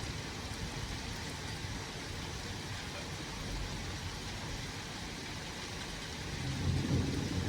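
Steady rain hiss during a thunderstorm, with a low rumble of thunder swelling near the end.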